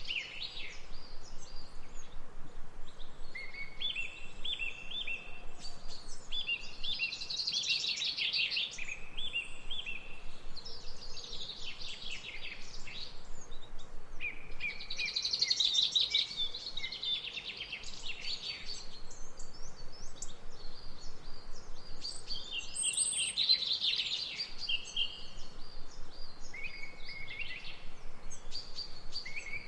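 Songbirds singing and chirping together, a busy chorus of rapid high notes and short trills that swells and eases every few seconds.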